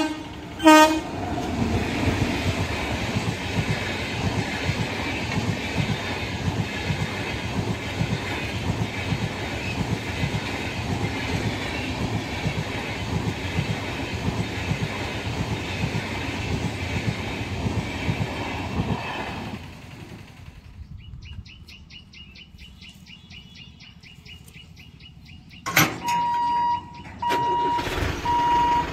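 An electric locomotive's horn cuts off right at the start. An Indian Railways express train then runs past close by, its wheels clacking steadily over the rail joints for about twenty seconds before it fades. Near the end a steady electronic beep sounds in short repeated pulses: a level-crossing warning buzzer.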